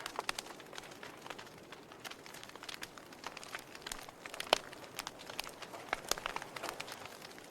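Wood fire burning in a fireplace: irregular crackles and pops over a soft hiss, with one sharper pop about four and a half seconds in.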